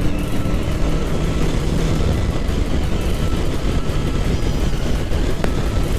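Kawasaki Ninja 650's parallel-twin engine running steadily while riding, mixed with heavy wind rush on the rider's microphone.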